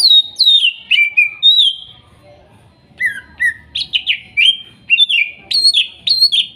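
Green leafbird (cucak ijo) singing loud, clear whistled notes, many of them quick downward slurs, in a short burst, then after a brief pause a longer run of phrases.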